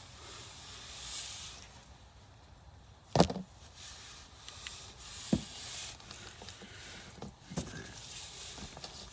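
Hand work in a car's engine bay: soft rustling and handling with a sharp knock about three seconds in and a smaller one about two seconds later.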